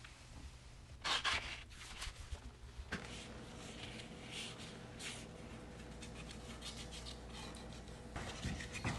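Paintbrush stroking paint onto a small wooden birdhouse piece: soft, irregular brushing and rubbing strokes, the loudest about a second in, with a quicker run of strokes near the end.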